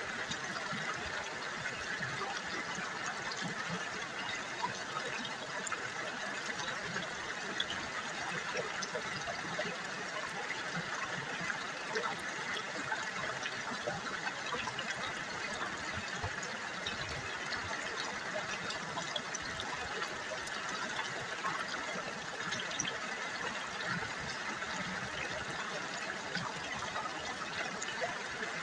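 River water babbling and trickling over stones: a steady, even rush scattered with small splashes and drips.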